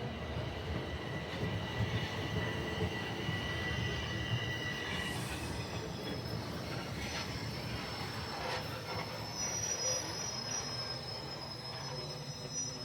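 Toronto transit train running with its wheels squealing on the rails over a low rumble. One high steady squeal lasts about the first five seconds, and a higher squeal sets in during the last few seconds.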